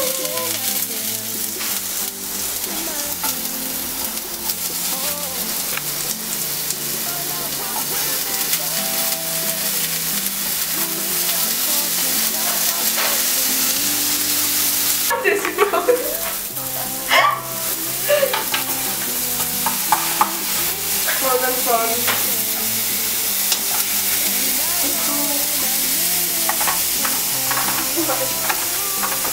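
Cut sausage pieces and crushed garlic frying in olive oil in a nonstick pan, giving a steady sizzle, with a spatula stirring and scraping them around the pan.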